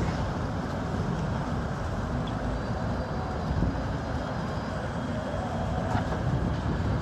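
Strong wind rushing steadily over the microphone high on a tower crane, a continuous low rumble with no let-up.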